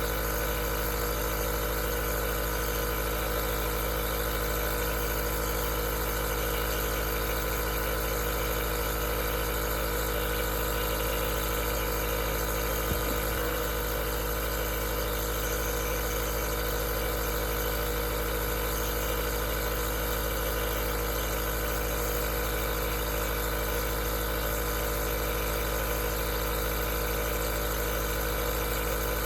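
Aerosol nebulizer's compressor running steadily: a constant motor hum with a hiss of air over it, unchanging throughout, with one faint tick about thirteen seconds in.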